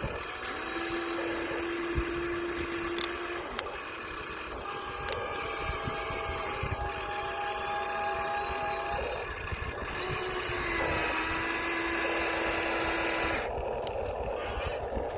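Small electric motors and gearboxes of Huina remote-control excavators whining as they work, several steady tones switching on and off and shifting in pitch every second or two as different movements start and stop.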